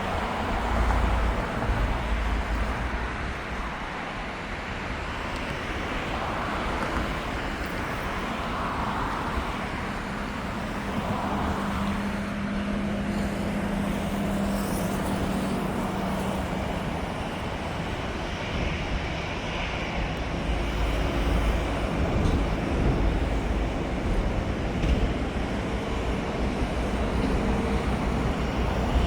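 Etihad jet airliner's engines rumbling steadily, mixed with road traffic noise; a low steady hum sounds for a few seconds in the middle.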